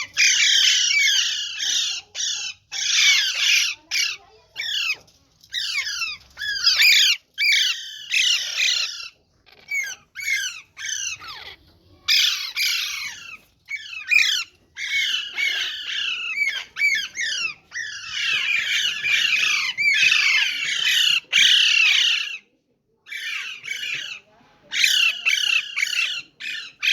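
Several caged green parrots squawking in shrill, overlapping flurries of calls, broken by short pauses.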